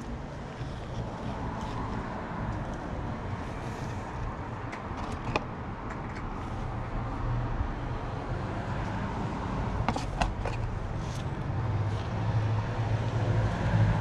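A vehicle engine running steadily with a low rumble that grows louder in the last few seconds, with a few sharp clicks or knocks about five and ten seconds in.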